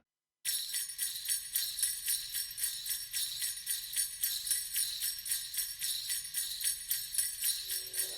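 Sleigh bells shaken in a steady rhythm, about four shakes a second, starting half a second in after a moment of dead silence: the opening of a Christmas music track.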